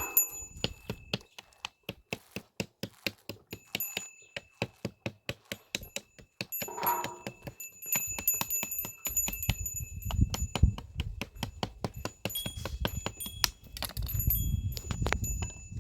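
Small metal bell clanking in a quick, even rhythm, then more unevenly, over a low rumbling noise in the second half.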